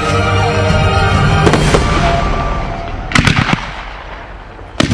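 Fireworks shells bursting with sharp bangs over music: a couple of bangs about a second and a half in, a cluster about three seconds in, and a loud bang near the end as the music fades out.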